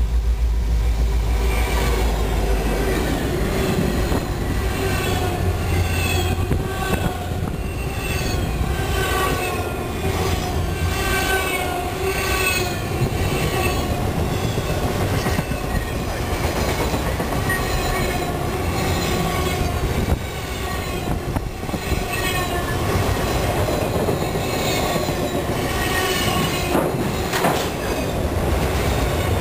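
Train rolling past with its wheels squealing on the rail in many short, falling squeals, over a steady rumble and the clicking of wheels over rail joints.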